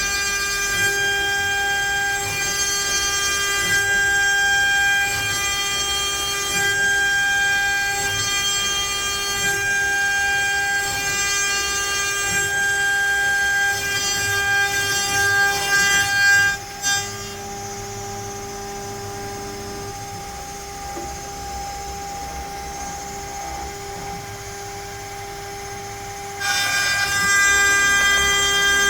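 CNC router spindle running with a steady high whine while its bit cuts pine. About two-thirds of the way through it drops quieter for several seconds, then comes back up near the end.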